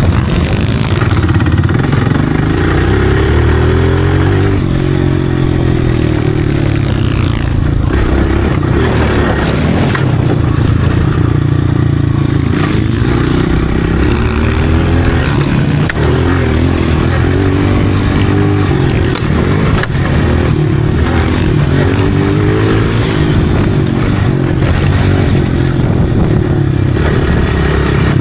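Dirt bike engine revving up and down over and over under riding, the pitch climbing and dropping back many times as the throttle opens and closes.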